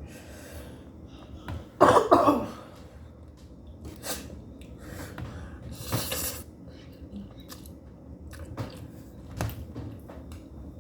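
A person coughing hard, a loud double cough about two seconds in, then chewing and breathing with a few smaller coughs or sniffs later on. The coughing comes from eating very spicy noodles that burn the mouth and throat.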